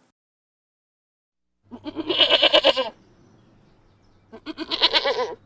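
Goat bleating twice: a long wavering bleat about two seconds in, then a shorter one near the end.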